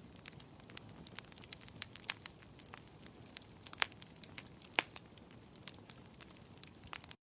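Wood fire crackling in a fireplace: irregular small pops and snaps over a soft hiss, with a few sharper pops about two, four and five seconds in.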